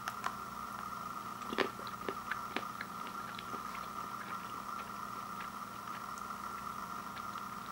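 A person chewing a bite of dark chocolate with marzipan filling: a few short crunches and mouth clicks, the loudest about one and a half seconds in, over a steady background hum.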